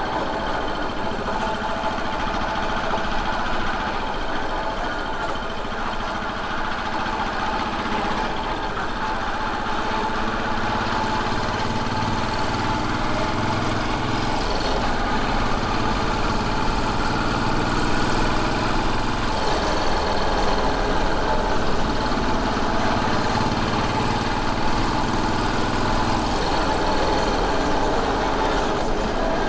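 Royal Enfield Bullet 500's air-cooled single-cylinder engine running steadily, its pitch drifting gently up and down with the throttle.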